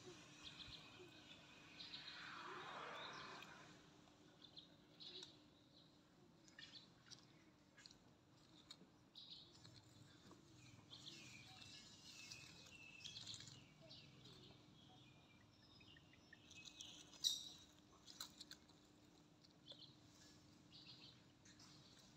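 Near silence outdoors: faint small birds chirping now and then over a faint steady low hum, with one sharp click about three-quarters of the way through.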